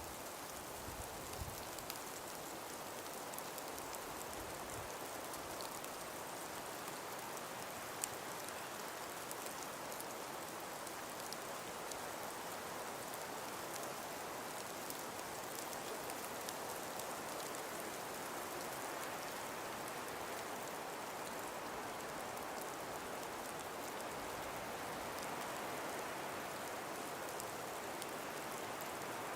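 Calm winter breeze through an ice-covered forest: a steady, even hiss with faint scattered ticks throughout and one sharper tick about eight seconds in.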